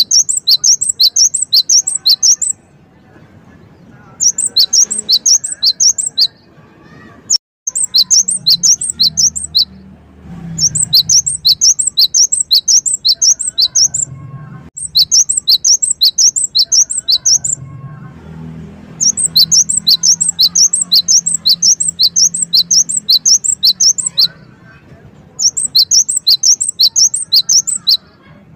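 Gelatik wingko (cinereous tit) singing loud bursts of rapid, sharp, high-pitched notes. The phrases repeat about eight times, each lasting roughly two seconds, with short pauses between. A faint low rumble runs underneath at times.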